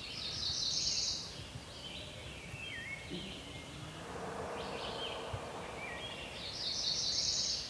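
Songbirds singing in spring woods. A high, buzzy trill comes twice, near the start and near the end, with scattered short whistled notes between. A faint rough rattle comes about four seconds in.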